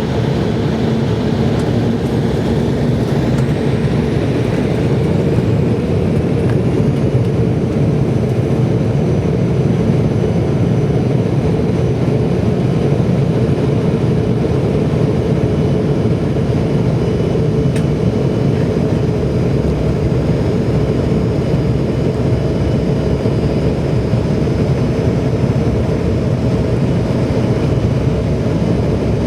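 Jet airliner's engines and rushing air heard from inside the cabin: a loud, steady, even noise with a low hum underneath.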